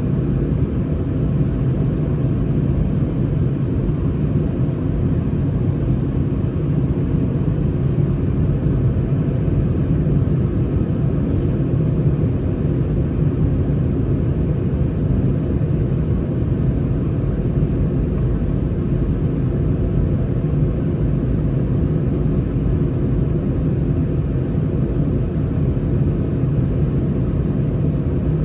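Steady low rumble inside the cabin of an Airbus A319: the constant drone of its CFM56 engines with a hum running underneath, unchanging throughout.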